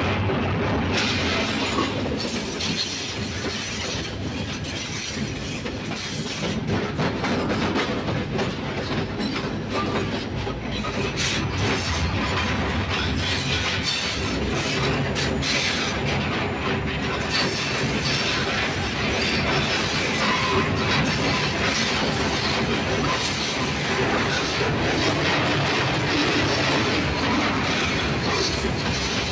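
Passenger train in motion: the steady running noise of coach wheels on the track, with some clickety-clack.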